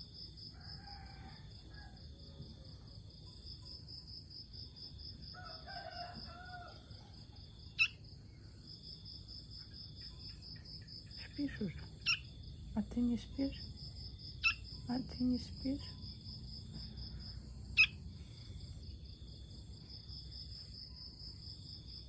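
Nestling songbirds held in cupped hands giving short, sharp chirps now and then, four louder ones a few seconds apart and softer calls clustered in the middle. Behind them insects trill steadily in a fast pulsing rhythm.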